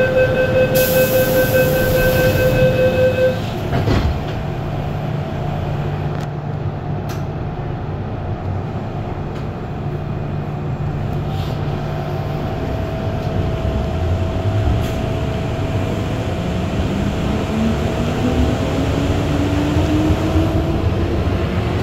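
Inside a carriage of an MTR M-Train electric metro train: a beeping electronic tone with a brief hiss for about three seconds at the start, then steady running noise from the train, with the traction motors' whine rising steadily in pitch over the last third as the train gathers speed.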